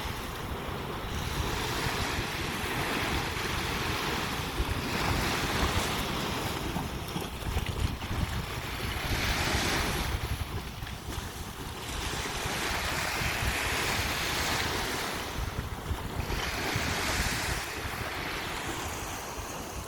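Sea waves breaking and washing up on a sandy beach. The surf swells and ebbs in a surge every three to four seconds over a steady rushing background.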